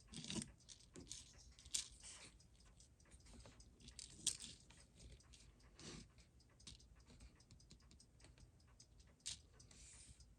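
Faint, scattered small clicks and taps of watchmaking tools and small metal watch parts being handled on a bench.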